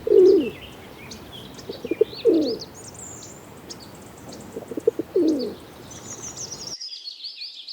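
Pigeon cooing: three low coos about two and a half seconds apart, each falling in pitch, with small birds chirping in the background.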